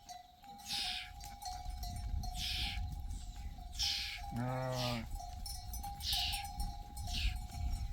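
A single bleat from a flock animal a little past halfway through. Around it, a short falling hiss repeats about every second and a half, over a thin, steady high tone.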